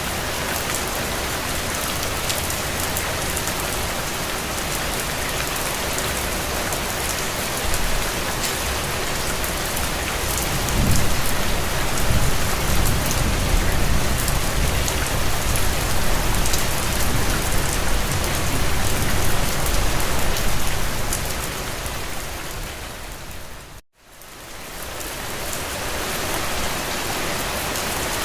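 Steady rain pattering on a window, with a deeper low rumble swelling about a third of the way in and lasting about ten seconds. Near the end the rain fades out to silence and fades back in.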